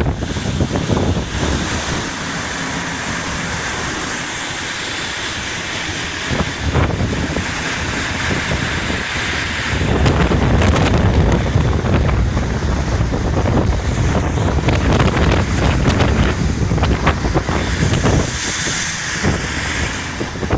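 Wind buffeting the microphone and water rushing past the hull of a motor yacht planing at speed, with the low drone of its twin diesel engines underneath. The sound is quieter for the first several seconds and louder and fuller from about halfway.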